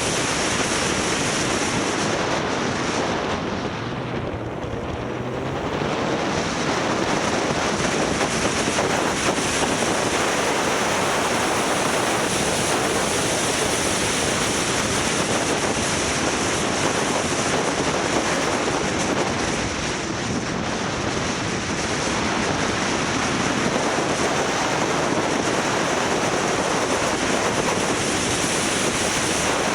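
Wind rushing over the microphone of a camera on a moving motorcycle, mixed with road noise, as a loud, steady rush. It eases briefly about four seconds in and again around twenty seconds.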